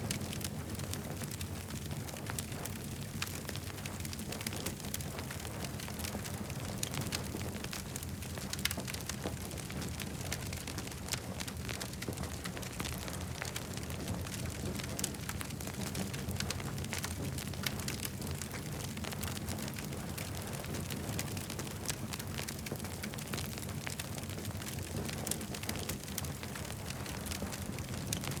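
Campfire crackling: many small sharp pops and snaps scattered throughout, over a steady low rumble.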